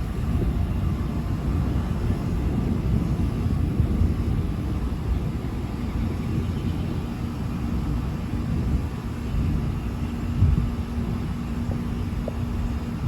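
Thunder rumbling and rolling continuously in a low register, swelling about four seconds in and again about ten seconds in.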